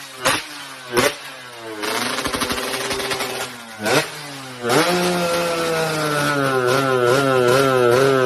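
Yamaha F1ZR two-stroke single-cylinder engine through an aftermarket racing exhaust. The throttle is blipped in short sharp revs, then held at high revs from a little past halfway, the pitch wavering up and down.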